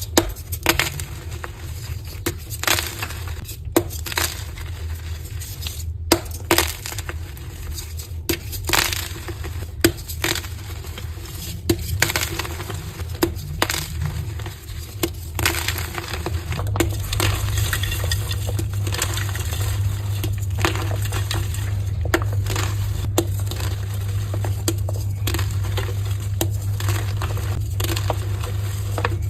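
Dyed soft gym chalk being crushed, a long run of sharp, crumbly crunches and crackles, some with a brittle clinking edge. A steady low hum runs underneath and gets louder about two thirds of the way through.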